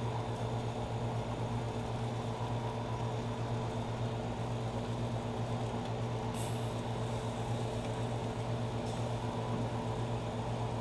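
A steady low machine hum with a faint hiss underneath, and one brief click about six seconds in.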